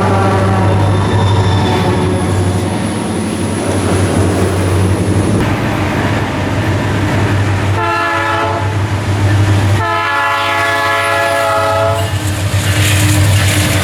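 Diesel freight locomotive horn sounding twice, a short blast about eight seconds in and a longer one about ten seconds in, over a steady low rumble of the moving train.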